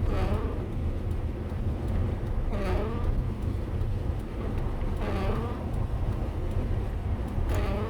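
Motorhome driving on the road, its engine and tyre rumble steady and low. A short sweeping sound, falling then rising in pitch, repeats about every two and a half seconds, four times.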